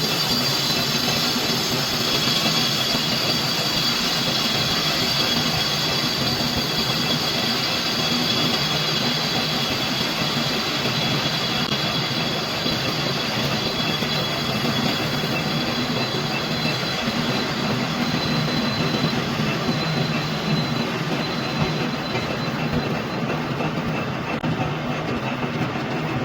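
Metal lathe running and cutting a hydraulic jack piston: steady machine noise over a low hum, with a thin high whine from the cut.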